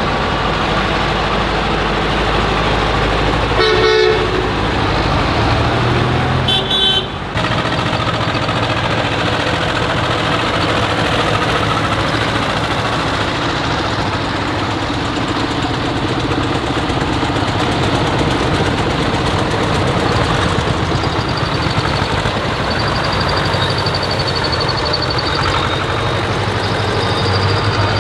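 Tractor engines running as a procession of tractors and other vehicles drives past, with two short horn toots, one about four seconds in and another around seven seconds in.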